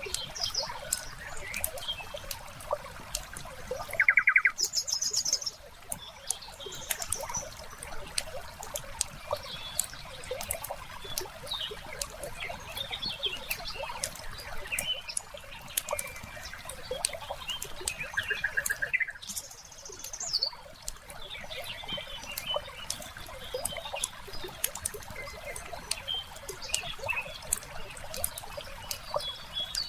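Wood fire crackling with frequent sharp pops over a steady hiss, with short bird chirps and trills now and then; the loudest comes about four seconds in.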